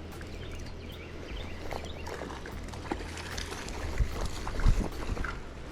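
Flowing stream water with wind rumbling on the microphone, and scattered small clicks and splashes.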